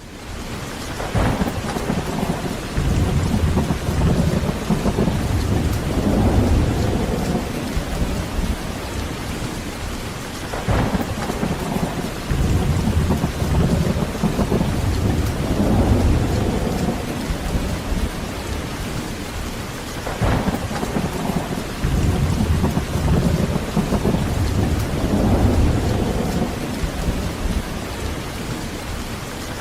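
Heavy rain falling steadily while thunder rolls in three times, about every ten seconds, each clap swelling into a long low rumble.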